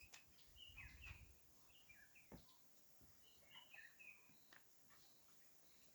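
Faint bird chirps: short, bent notes in a few small clusters, with a soft knock about two and a half seconds in.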